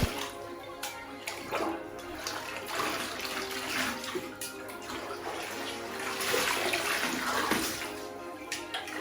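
Water splashing and sloshing in a bathtub while a cat is bathed, swelling twice, over background music with held tones.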